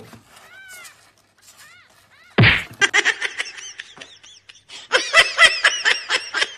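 Kitten mewing: short, high, arching calls, a few faint ones at first, then a rapid, louder string of them through the second half. A short, loud, rough burst comes about a third of the way in.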